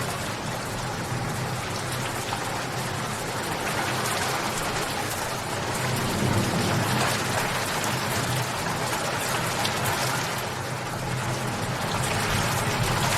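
Steady rain falling, with a dense pattering of drops on a surface. The level swells slightly now and then.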